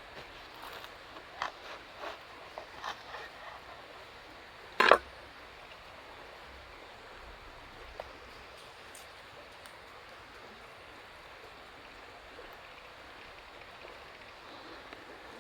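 Wood campfire hissing steadily, with a run of sharp crackles and pops in the first few seconds and one much louder sharp snap or knock about five seconds in.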